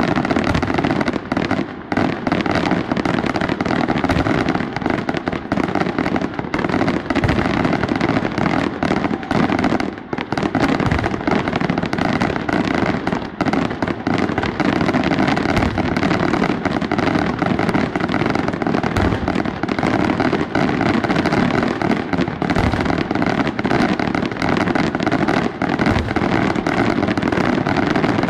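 Fireworks display going off in a dense barrage: many rapid bangs and crackles overlapping without a break, with a short lull about ten seconds in.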